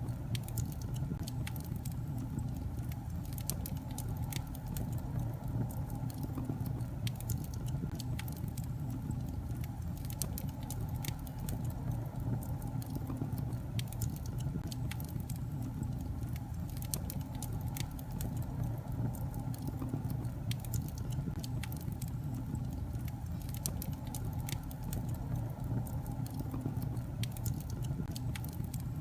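Wood fire crackling in a fireplace: a steady low rumble of the flames with frequent sharp pops and snaps of burning logs.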